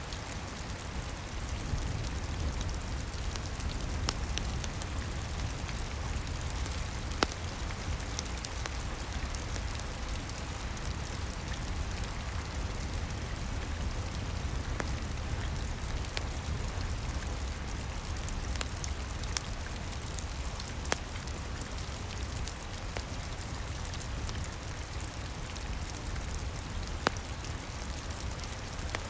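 Steady rain pattering, with a low rumble underneath and a wood fire crackling in scattered sharp pops, a few louder ones standing out.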